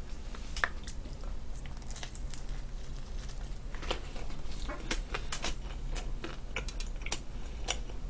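Pizza being chewed close to the microphone: an irregular run of soft mouth clicks and smacks over a low steady hum.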